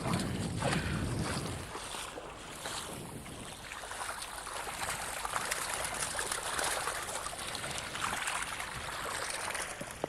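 Water splashing and streaming, irregular and continuous, as a keepnet full of fish is drawn up out of the river.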